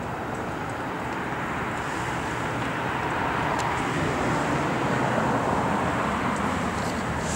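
Road traffic noise that swells steadily, as of a vehicle drawing closer.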